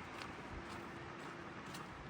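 Steady rain falling, an even hiss, with a few faint ticks of drops or steps.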